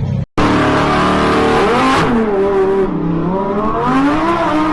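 Car engine revving, its pitch climbing and dropping several times. The sound cuts out completely for a moment just after the start.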